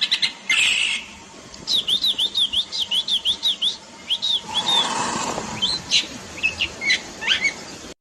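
Lesser grey shrike singing: a chattering run of varied harsh and squeaky notes, with a stretch of repeated high notes about four a second and scratchy, grating calls between.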